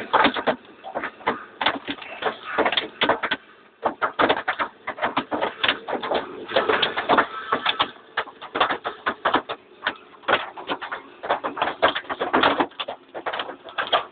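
Hailstones hitting hard surfaces: a dense, irregular clatter of sharp impacts, thinning briefly twice.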